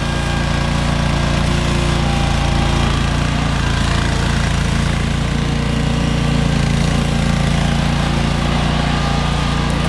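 John Deere X728 garden tractor's liquid-cooled V-twin engine running steadily at an even speed.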